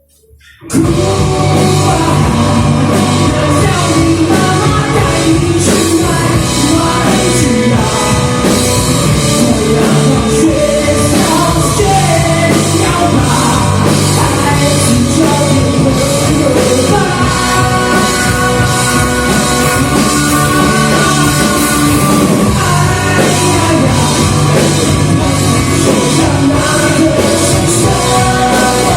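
Live rock band starting a song all at once about a second in, then playing loudly and fully, with singing.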